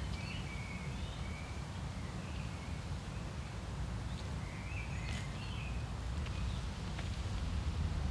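Birds chirping in short calls near the start, about two and a half seconds in and about five seconds in, over a steady low rumble of outdoor ambience.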